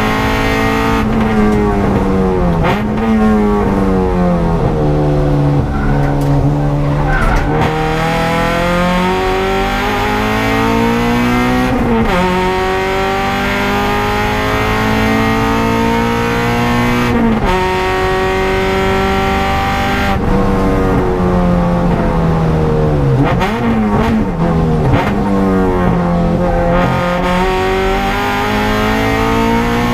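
Honda Civic EG race car's four-cylinder engine heard from inside the cabin while driven hard on track. Its note climbs under acceleration and falls away under braking, with sudden pitch jumps at the gear changes.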